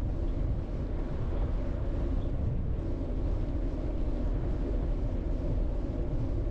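Steady wind rush buffeting the microphone over the hum of a touring bicycle's tyres rolling along the road while riding.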